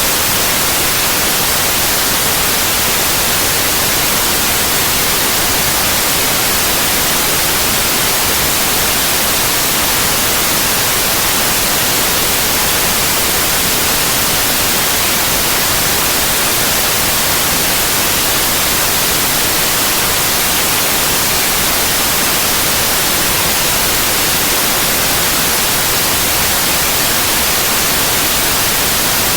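Synthetic white noise: a steady, even hiss, strongest in the highs, with no change or interruption.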